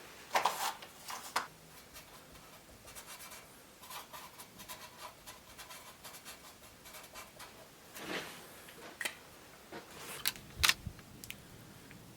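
Quiet handling noises of hardware being worked by hand: scattered small clicks and rubs, with a few sharper knocks in the second half.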